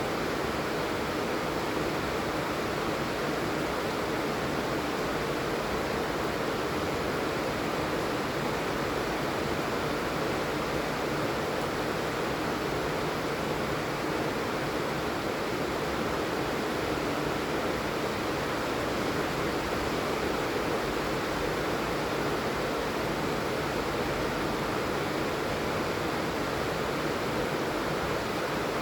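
Rain falling steadily: an even, unbroken hiss at a constant level.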